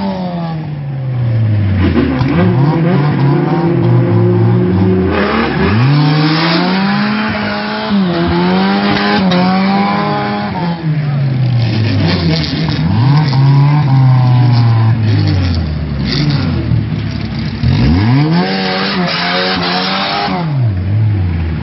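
Car engine revved hard, its pitch climbing and falling again and again, as the car does a burnout, its spinning rear tyres hissing and squealing in between.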